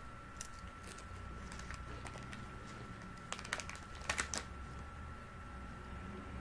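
Potato chips being bitten and chewed: scattered crisp crackles, loudest in two short clusters a little past the middle, over a faint steady high-pitched tone.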